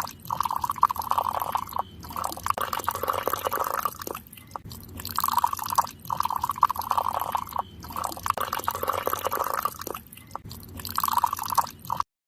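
Water splashing and pouring from a mini water pump's outlet in uneven spurts, with short breaks between them; it cuts off abruptly near the end.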